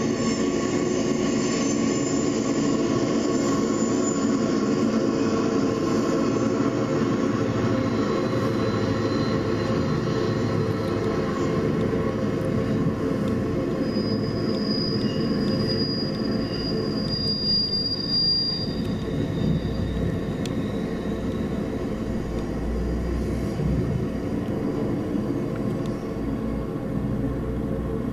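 EMD F-unit diesel locomotives and their passenger cars rolling past on curved track, a steady engine drone over wheel and rail noise, with a thin high squeal from the wheel flanges on the curve around the middle and a deeper rumble later on.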